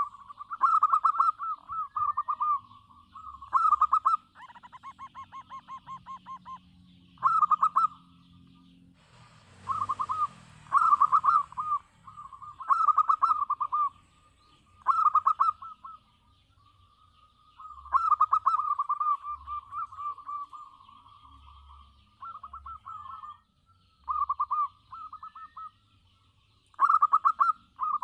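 Zebra dove (perkutut) cooing over and over: short, rapidly pulsed coo phrases every second or two, with brief pauses between bouts. A short rustling noise about ten seconds in.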